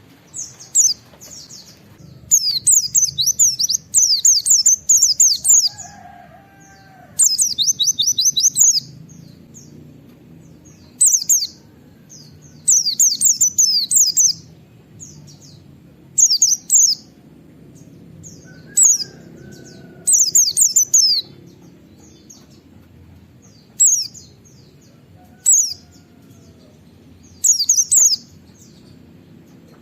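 A white-eye (pleci) singing in rapid bursts of high, quick downward-sweeping notes. The phrases last about one to two seconds each and are separated by short pauses.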